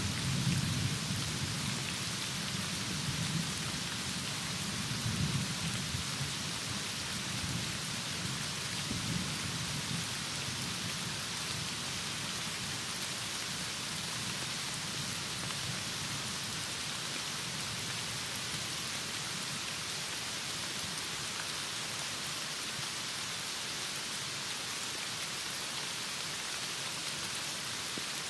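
Heavy rain falling steadily, with a low thunder rumble at the start that dies away about ten seconds in.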